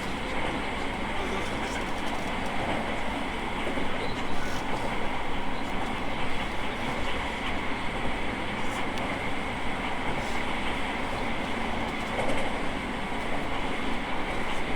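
E217 series electric train running at steady speed, heard from inside the car: continuous wheel and rail rumble with a steady whine, and a few faint clicks from rail joints.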